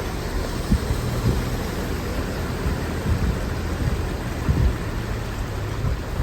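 Heavy rain falling steadily, under irregular low rumbles from wind buffeting the microphone.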